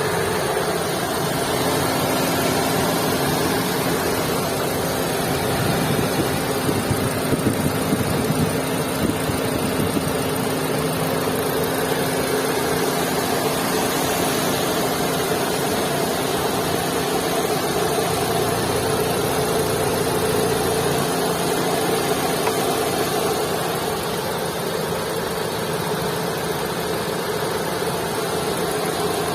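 2022 Maruti Suzuki Swift engine running at idle, a steady hum whose humming tone fades about three-quarters of the way through, with a rougher, slightly louder stretch about seven seconds in. It is the heavy engine sound that is presented as a noise problem.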